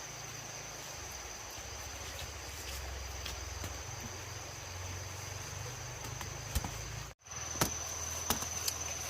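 Insects, crickets or cicadas, keeping up a steady high-pitched drone, over a low rumble and a few scattered clicks. The sound drops out for a moment about seven seconds in, then carries on.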